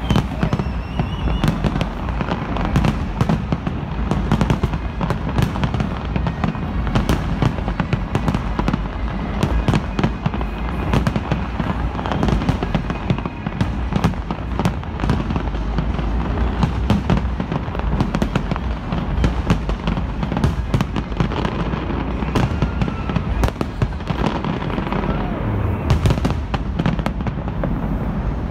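Large fireworks display going off in a dense barrage: many sharp cracks and bangs, one on top of another, over a steady low rumble.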